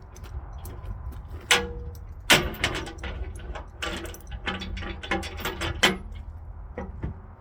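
Skid steer engine running with a steady low rumble, under repeated loud metallic clanks and rattles as the machine works at pulling out a tree stump.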